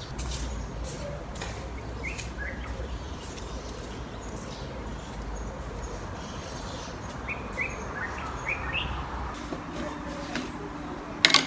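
Small birds chirping in short bursts over a steady low background rumble, with scattered light clicks and one sharp knock near the end.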